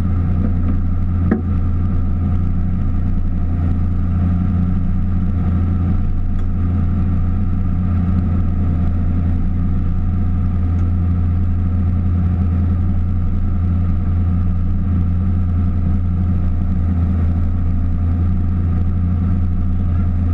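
Drift car engine idling steadily, heard from inside the cabin, with no revving. A single sharp click about a second in.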